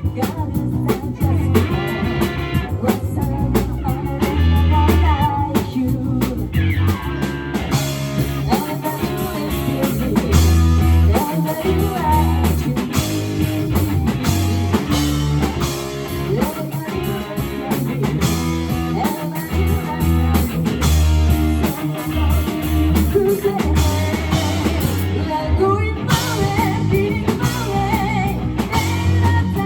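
A live rock band playing: electric guitar, bass and drum kit, with singing over it.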